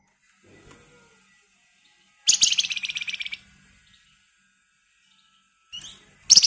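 Flamboyan (wergan Jawa) songbird singing: a loud, rapid rattling trill about a second long a couple of seconds in, then a short call and a sharp loud note near the end.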